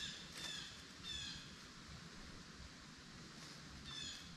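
A bird calling: short falling notes, three in the first second or so and one more near the end.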